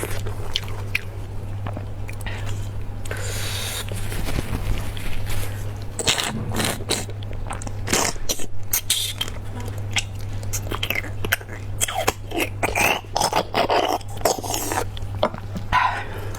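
Close-miked eating of spicy beef bones: irregular biting, crunching and chewing, with scraping sounds, over a steady low hum.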